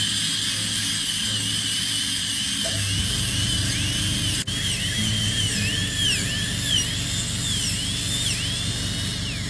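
High-speed dental drill whining, its pitch dipping repeatedly as it bites into the tooth and recovering between cuts, with a brief break about halfway through.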